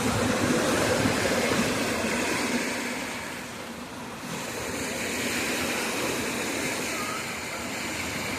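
Steady rushing of water, louder for the first few seconds, easing briefly just before halfway, then going on evenly.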